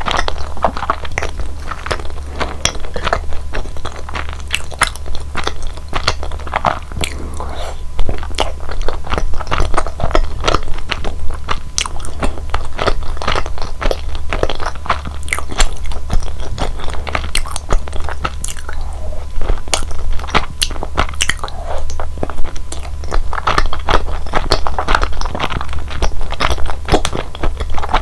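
Close-miked chewing and biting of chewy, sticky mitarashi dango (glazed rice-flour dumplings), full of small sharp wet mouth clicks.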